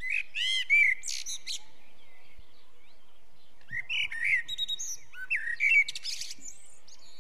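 A songbird singing two phrases of quick chirps and trills, one right at the start and another about four seconds in.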